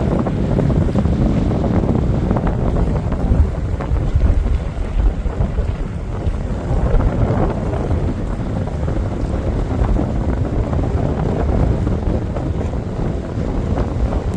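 Strong wind buffeting the microphone: a loud, low rumbling rush that rises and falls with the gusts.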